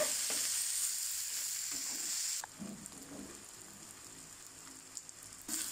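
Sliced shallots and whole garlic cloves sizzling as they fry in hot sesame oil in a wok while being stirred with a wooden spatula. The sizzle drops off abruptly about two and a half seconds in and carries on much fainter.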